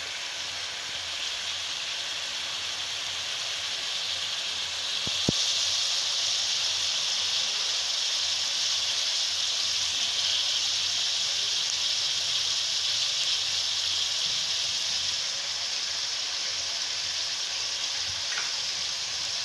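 Sliced onions frying in ghee, sizzling steadily; after a sharp click about five seconds in, the sizzle grows louder and stays so.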